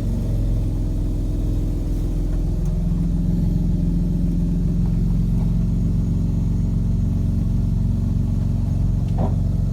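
Toyota Land Cruiser's fuel-injected engine running with a steady low note while the truck rolls slowly off a trailer.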